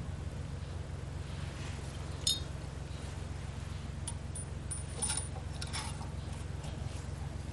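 A few light metallic clinks, one about two seconds in and two more just past five seconds, over a steady low hum.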